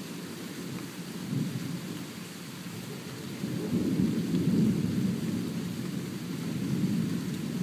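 Thunder rumbling, swelling about a second and a half in and louder again from about three and a half seconds, over a faint steady hiss of rain.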